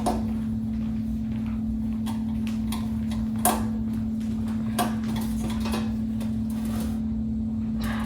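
A few sharp clicks and knocks of tools and metal parts being handled while a box fan is taken apart, over a steady low hum.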